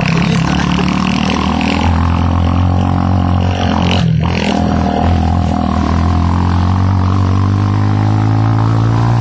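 Motorcycle engine running under load with a steady drone; it breaks off briefly about four seconds in, then its pitch climbs steadily as it accelerates.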